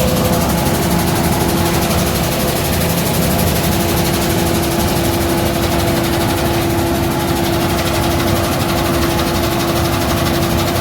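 Tractor-driven grain destoner and seed cleaner running steadily, with the tractor engine and the machine's mechanism making a constant, loud noise and a steady hum.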